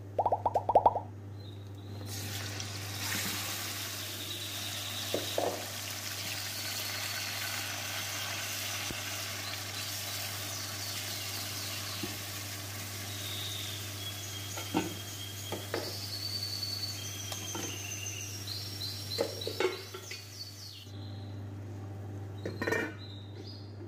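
Marinated chicken pieces sizzling in hot oil in a non-stick wok, with a wooden spatula stirring them and knocking against the pan now and then. The sizzle starts about two seconds in and drops away near the end, over a steady low hum.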